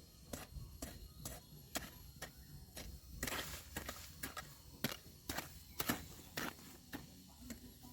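A hand garden tool chopping into soil and weeds while tilling and weeding a chilli bed: sharp, uneven strikes about twice a second, with a short rustling scrape a little after three seconds in.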